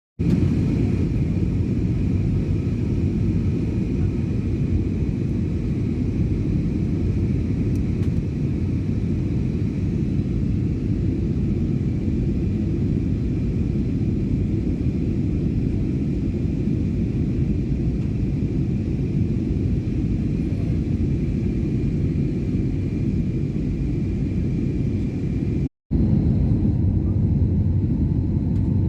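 Steady cabin noise of a jet airliner in flight: a deep rumble of engines and airflow with a faint high tone over it. It drops out for an instant near the end.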